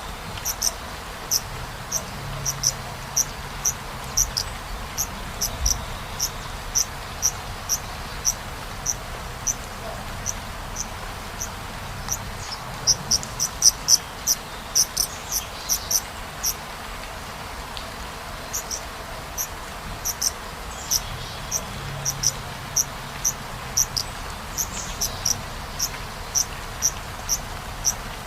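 Insect chirping in a steady rhythm of about two short, high chirps a second, with a faster run of chirps near the middle, over a steady hiss.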